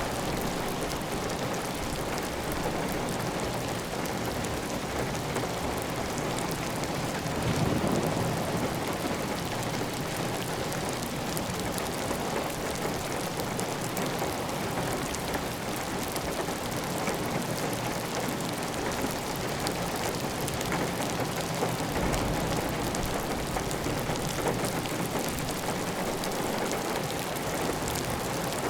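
Heavy rain falling steadily on a tiled roof, with water running off the roof edge: an even hiss with many small drop ticks through it. There is a brief low swell about eight seconds in.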